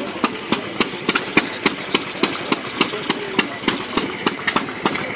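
Vintage engine running slowly with a steady, sharp beat, about four strikes a second.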